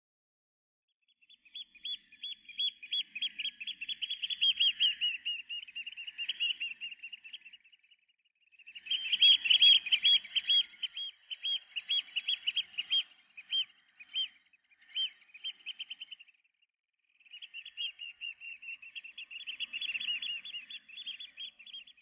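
Birds chirping in fast, high twittering runs of quick repeated notes. They come in three bouts of several seconds each, with short breaks between, and the middle bout is the loudest.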